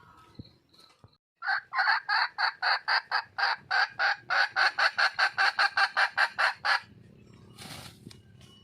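Red junglefowl hen giving a fast series of about thirty clucking calls, five or six a second, lasting about five seconds, then stopping abruptly: the hen's call for a mate.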